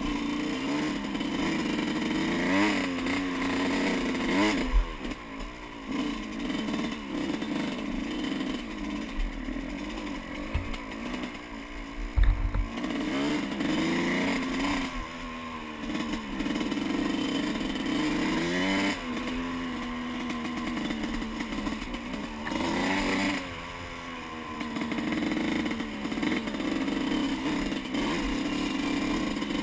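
Yamaha YZ125 two-stroke single-cylinder engine being ridden off-road. It revs up and drops back again and again through the gears. Two sharp low thumps come through, the first a few seconds in and the second near the middle.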